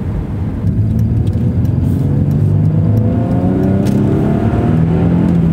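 Chrysler Crossfire's 3.2-litre V6 under hard acceleration, heard from inside the cabin, its pitch climbing steadily as the revs rise, with a brief dip near the end.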